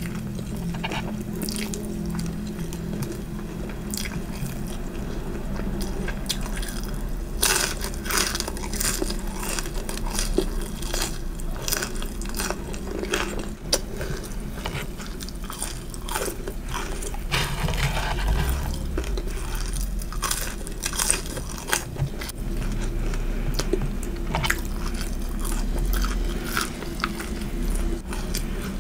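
Close-miked biting and chewing of crunchy fried food, with many irregular sharp crunches and crackles that come thicker from about a quarter of the way in.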